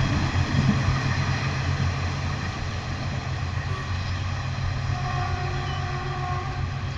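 Diesel-electric train fading as it moves away after passing, leaving a steady low engine hum.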